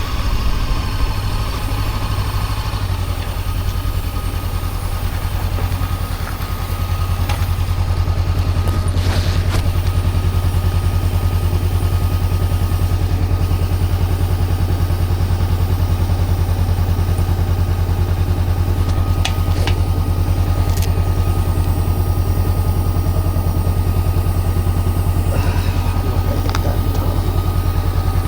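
Honda CB400X's parallel-twin engine idling steadily with a low, even throb, with a few light clicks.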